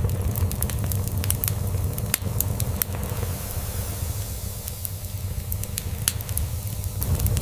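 Wood fire crackling, with irregular sharp pops and snaps over a steady hiss. Under it runs a continuous low purring rumble from a cat.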